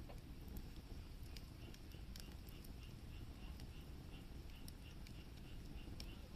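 Firewood burning in a campfire, crackling with sparse sharp pops over a low rumble. About a second and a half in, a faint high chirp starts repeating about three times a second.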